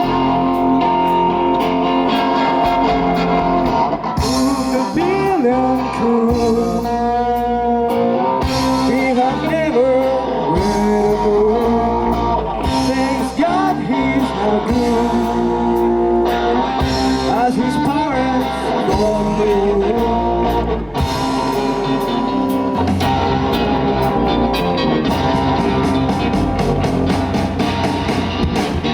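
Live rock band playing: electric guitar and drums with a steady beat, and a sung vocal line through much of the passage.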